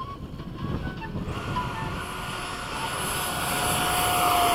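Electric ducted fan of a 70 mm FreeWing F-16 RC jet throttled up for the takeoff roll. Its whine swells from about a second in and is loudest near the end.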